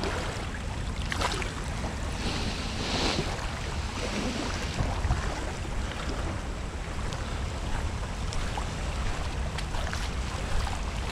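Steady rushing noise of water pouring from a flowing outflow, with wind buffeting the microphone.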